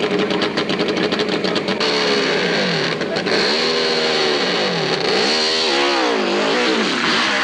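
Competition hillclimb motorcycle engine running at a steady, fast-pulsing note, then revved up and down about four times in quick succession, its pitch rising and falling with each blip of the throttle.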